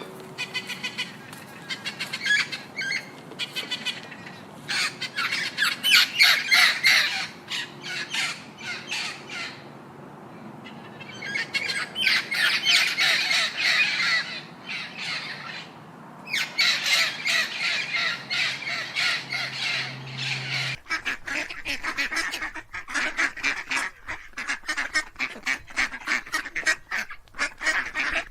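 A flock of farmyard fowl squawking and calling in rapid, dense runs, with short lulls between them.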